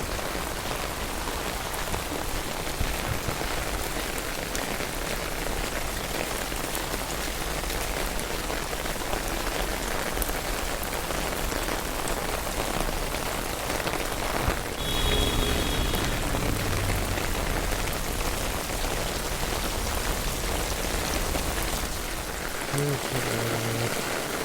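Heavy rain falling steadily, a dense even hiss of rain on surfaces, brought by Cyclone Biparjoy. A brief high tone sounds about fifteen seconds in.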